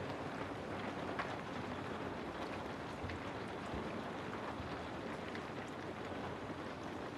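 Steady rain falling, with scattered single drops tapping out more sharply now and then.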